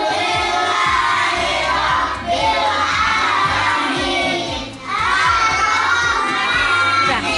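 A group of young children singing and shouting together over music with a steady beat.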